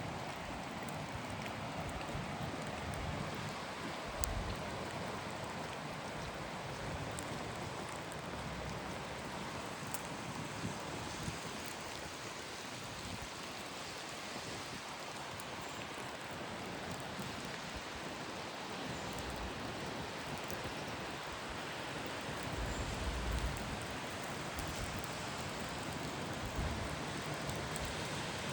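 Steady rain falling, an even hiss throughout, with a few brief low rumbles about 4 seconds in and near the end.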